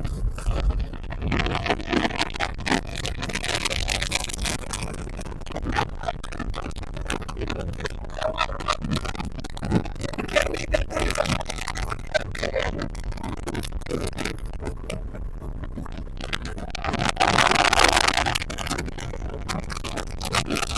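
Wind and water noise aboard a center-console boat running at speed, with frequent short knocks as the hull slaps the chop. A louder rush of wind or spray comes near the end.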